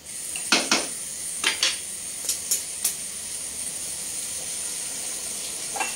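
Chicken and potato curry sizzling in a pot on a stove burner that has just been turned up, a steady hiss. A wooden spatula scrapes against the pot several times in the first three seconds as the curry is stirred.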